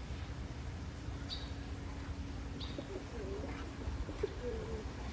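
Pigeons cooing: low, wavering coos that begin about halfway through, preceded by two short high chirps, over a steady low rumble.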